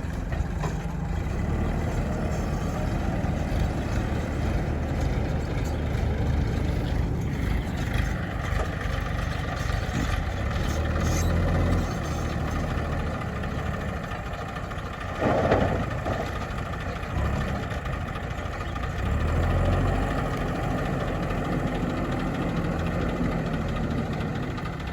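A JCB earthmover's engine running steadily, its low rumble growing louder and easing off at times as the machine works. A brief louder noise comes about fifteen seconds in.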